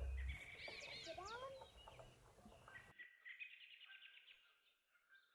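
Birds calling: whistled notes gliding up and down for the first few seconds, then rapid twittering chirps. The song's last bass note cuts off just as the birds begin.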